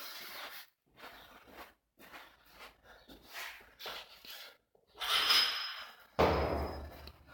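Short, sharp breaths from a weightlifter getting ready for a heavy lift, then a sudden heavy thud about six seconds in.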